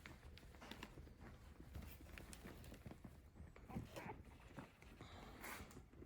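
Newborn puppies stirring: faint, scattered clicks and scuffling.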